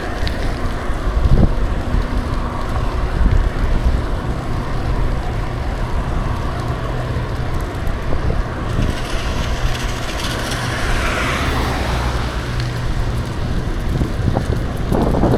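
Wind buffeting the microphone on a moving bicycle, over a steady low rumble of riding and road noise. A louder rush of noise swells and fades about nine to twelve seconds in, and there are a couple of brief thumps.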